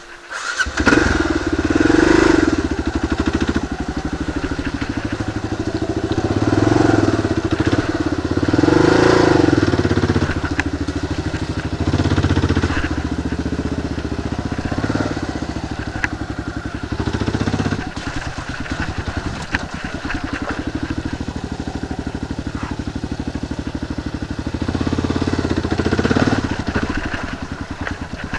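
Kawasaki KLR 650's single-cylinder engine running under load, cutting in loudly just after the start, its revs swelling and easing repeatedly.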